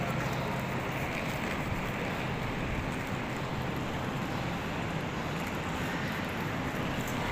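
Steady vehicle travel noise: an even rumble and hiss with no distinct events.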